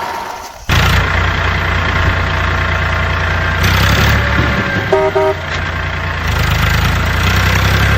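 Vehicle engine running steadily, cutting in abruptly under a second in, with two short horn beeps about five seconds in.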